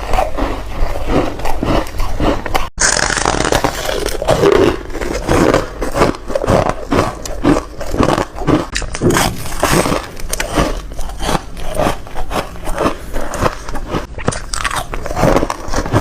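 Close-miked biting and crunching of foam ice: repeated crisp crunches, roughly two a second, with a brief break just under three seconds in.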